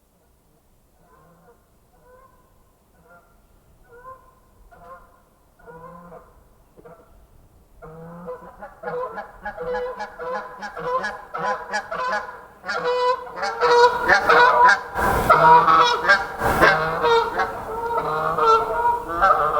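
A flock of geese honking: faint scattered honks at first, then more birds calling over one another, building to a loud, dense clamour in the last third. A few sharp cracks cut through near the end.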